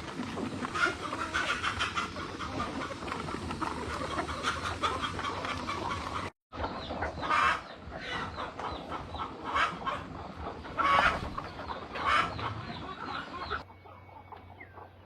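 Chickens clucking and calling, many short calls overlapping. The sound drops out for a moment about six seconds in and turns much quieter near the end.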